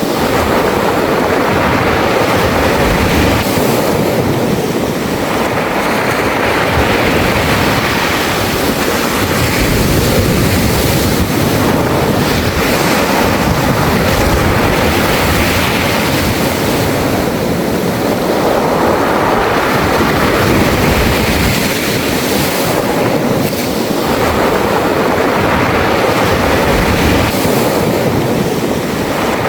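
Sea waves washing in and out over a beach of round, smooth pebbles (mongdol). The steady surf rises and falls in broad swells every few seconds as each wave surges over the stones and draws back.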